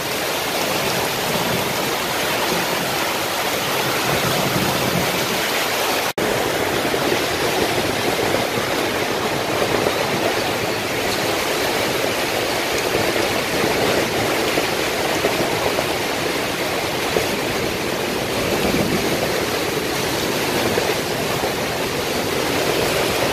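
Heavy tropical-storm rain pouring down, a dense, steady hiss of water. The sound drops out for an instant about six seconds in.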